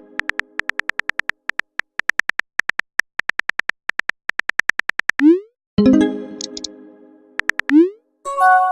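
Text-messaging sound effects: runs of quick phone-keyboard typing clicks, broken twice by a short rising pop, each followed by a chime that rings out and fades.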